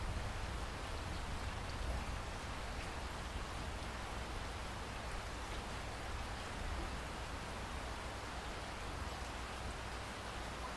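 Steady rain falling, an even hiss with faint scattered drop ticks and a constant low rumble underneath.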